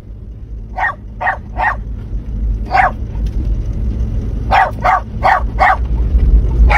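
Dog barking: short sharp barks in bunches, three, then one, then four, then one more, over a steady low rumble.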